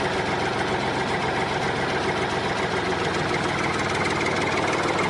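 A toy JCB backhoe excavator running steadily with an engine-like drone while it digs.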